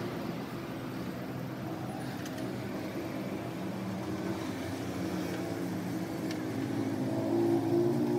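A car engine running steadily, getting louder for about the last second and a half.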